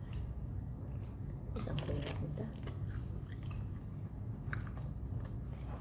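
A person chewing and biting french fries, with a few short, crisp mouth clicks, over a steady low hum.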